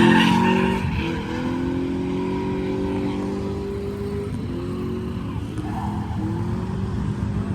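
Infiniti G35's V6 engine running just after a restart: it revs up right at the start, then holds a steady pitch with a couple of small dips. The owner suspects fuel pump trouble, which had made the car hard to start.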